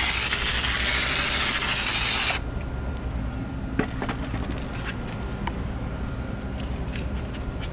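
Steady hiss of water sprayed from a spray bottle to wet a 3000-grit sanding pad for wet sanding, cutting off sharply about two and a half seconds in. Faint handling rustles and small clicks follow.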